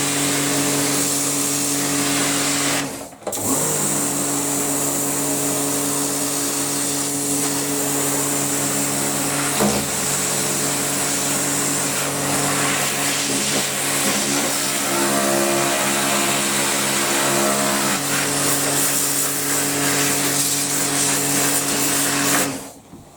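Electric high-pressure washer running, its pump motor humming under the hiss of the water jet on the washing machine tub; it stops briefly about three seconds in, then runs on until it cuts off near the end.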